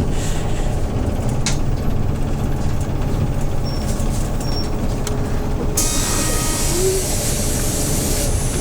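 Hyundai New Super Aero City CNG city bus engine running steadily under way. About six seconds in, a hiss of compressed air starts abruptly and lasts two to three seconds before cutting off.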